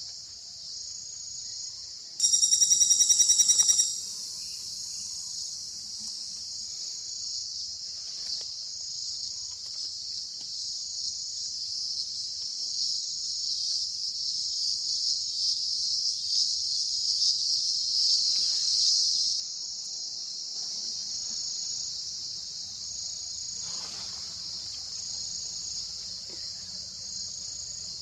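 Insects trilling in a steady, high, shrill chorus, with a short repeating pulse about every second and a half. About two seconds in comes a louder rapid pulsed call lasting roughly a second and a half. The chorus swells later and cuts off suddenly about two-thirds of the way through.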